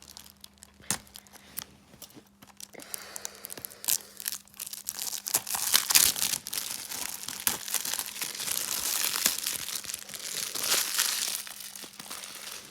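Plastic wrapping being torn open and crumpled off a DVD case: a few light clicks at first, then about nine seconds of continuous crinkling and tearing.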